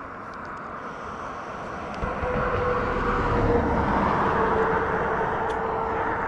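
An engine passing close by, growing louder about two seconds in, with a steady whine over a rushing noise.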